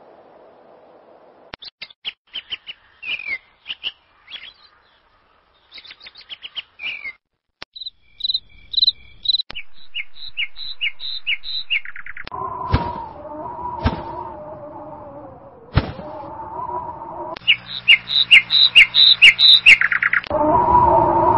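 Small birds chirping and tweeting in quick series of short high notes, which start and stop abruptly in separate stretches. In the middle, a steady lower droning tone sits under the chirps, broken by three sharp clicks. The chirping is loudest near the end.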